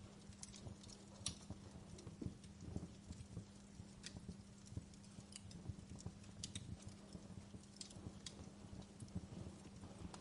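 Wood fire crackling quietly, with irregular sharp pops and snaps over a low rumble and a faint steady hum.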